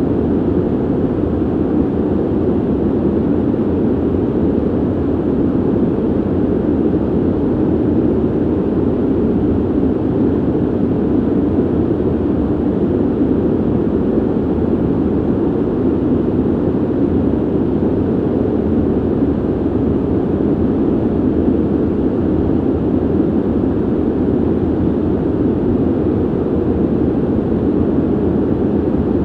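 Ventilation system running with a steady, even rush of air, deep and muffled rather than hissy, with no changes or breaks.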